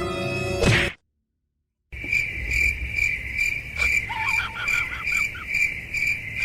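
Crickets chirping steadily, about two pulsed chirps a second, starting after a second of silence. A few faint, short, high squeaky calls sound in the middle.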